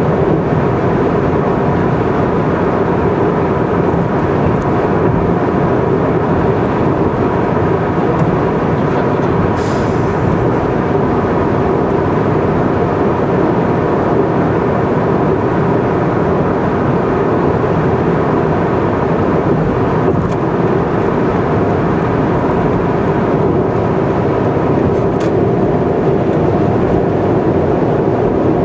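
Steady road noise of a car cruising on an expressway: tyre and engine noise with a faint steady hum, and a brief hiss about ten seconds in.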